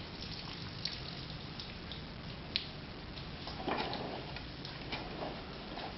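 Faint patter and drip of water with a few light ticks and a brief splashy rustle a little before two-thirds of the way in, over a low steady hum.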